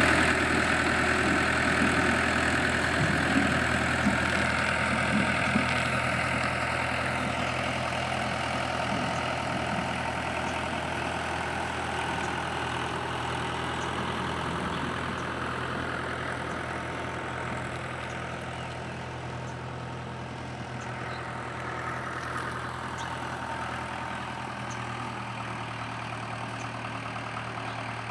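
Tractor engine running at a steady idle, a little louder in the first few seconds.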